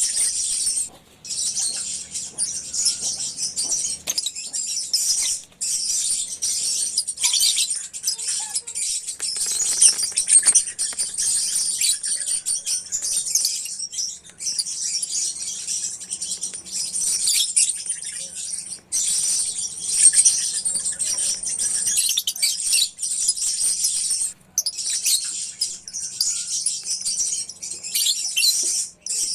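A colony of lovebirds chirping and chattering without let-up, many shrill overlapping calls with a few brief pauses.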